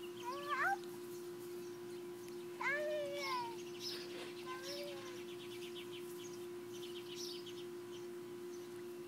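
Three short, wavering, meow-like animal cries, with faint high chirps and a quick trill over a steady hum.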